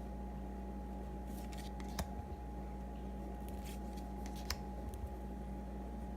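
Trading cards being handled and flipped through: a few soft rustles and short clicks, the sharpest about two seconds in, over a steady low hum.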